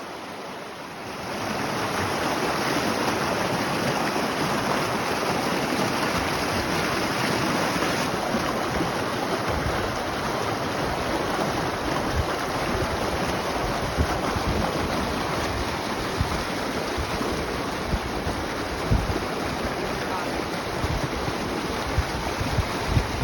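Strong wind rushing over the microphone. It rises about a second in, then holds steady, with low buffeting thumps of gusts on the mic toward the end.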